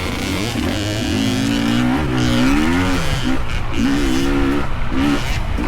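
Small dirt bike engines revving up and down as riders pass, the pitch rising and falling several times.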